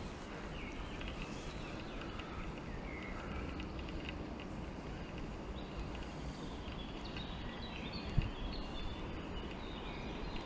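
Birds chirping in short notes over a steady low background noise, the chirps busier in the second half. One short knock about eight seconds in.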